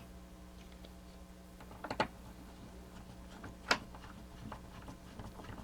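A few light clicks and taps of small plastic parts being handled and fitted back onto a toy mechanism, the two sharpest about two seconds and nearly four seconds in, over a faint steady hum.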